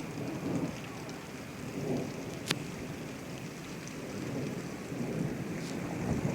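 Rain falling steadily, with a low rumble swelling and fading underneath and a single sharp tap about two and a half seconds in.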